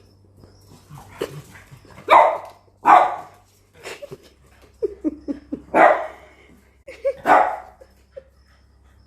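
Barking: four loud, short barks with softer yips between them.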